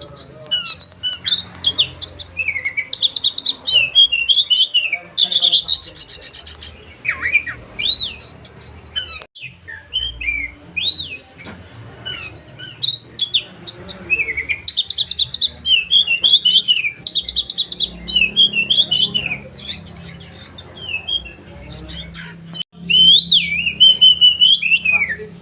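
Oriental magpie-robin (kacer) singing a long, varied song of rapid repeated trills, sharp whistled sweeps up and down, and chattering notes. It pauses briefly twice and ends in a loud burst.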